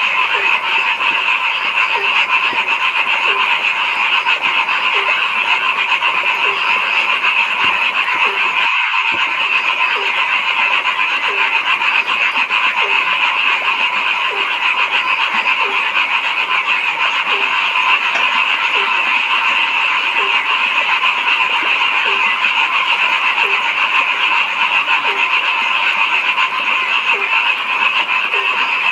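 A dense chorus of frogs calling without pause, with a lower-pitched call repeating about once a second.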